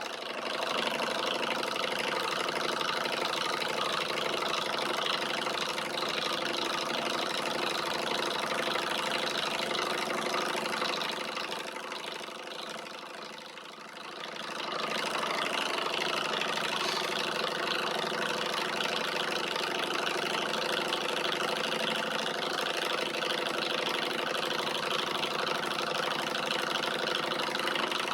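Alpha-type Stirling engine running steadily as it drives a small generator. The sound fades down about halfway through and comes back a few seconds later.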